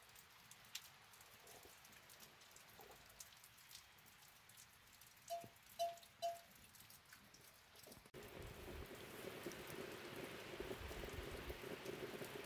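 Faint light rain with scattered drip ticks. Three short squeaks come close together around the middle, and about two-thirds through the rain turns into a louder, steadier hiss.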